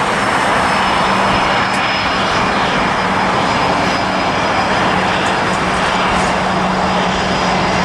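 Jet airliner engines passing close by: a loud, steady rush of jet noise with a low hum underneath and a faint high whine.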